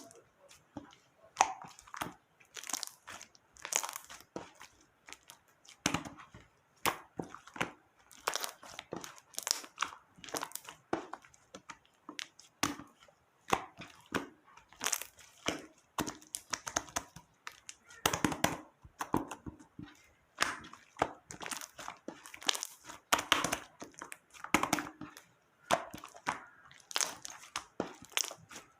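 Slime being squeezed, poked and stretched by hand, giving a run of irregular sharp clicks, pops and crackles, several a second.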